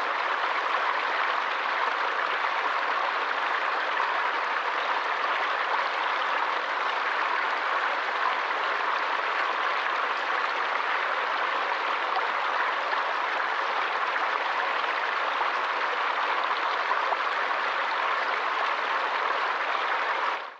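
Water rushing steadily along a stream, an even unbroken hiss, cutting off abruptly at the very end.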